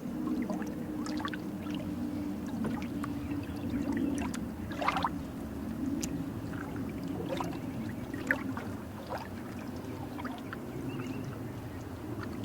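River water flowing steadily, a low rushing with frequent small gurgles and splashes over it.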